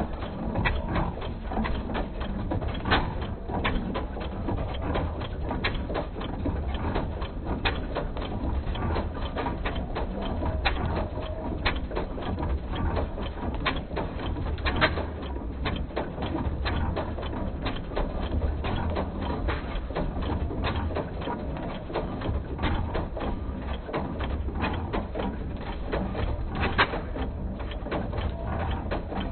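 Lister L stationary engine and its pump running: a steady low rumble with a dense, irregular clatter of mechanical clicks and knocks.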